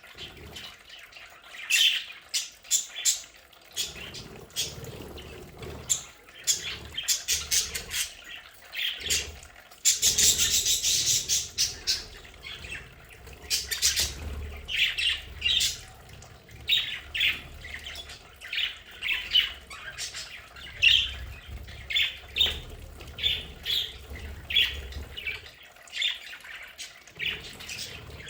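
Pet budgerigars (budgies) chirping and squawking, with many short, sharp calls in quick succession. About ten seconds in there is a loud rush of noise lasting about two seconds.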